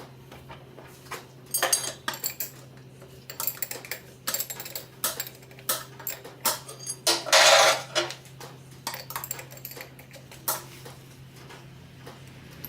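Light metallic clinks and rattles, irregular and repeated, over a steady low hum, with a longer, louder scraping rattle about seven seconds in.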